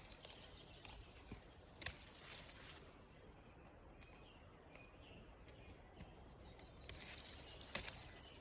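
Scissors snipping stinging-nettle stems: two sharp snips, one about two seconds in and one near the end, each followed by a brief rustle of leaves.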